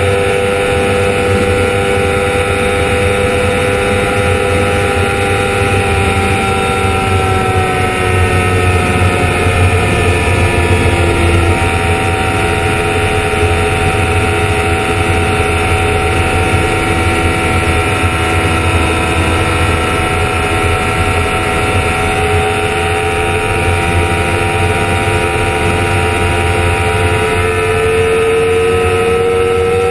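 Honda CBR1000RR inline-four engine running at high revs in sixth gear at close to 280 km/h, with heavy wind rush. The engine note falls over the first ten seconds or so as the bike slows, then climbs again near the end as it accelerates.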